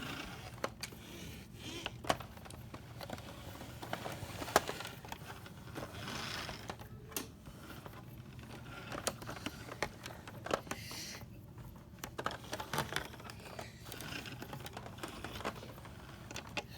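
Irregular light clicks and taps from small toys being handled, over a faint steady low hum.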